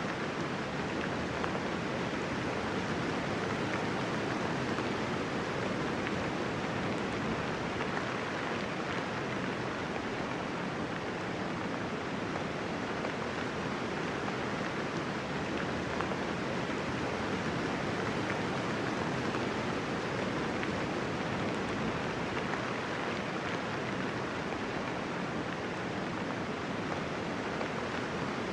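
Steady rainfall, a dense even hiss of many raindrops with no thunder.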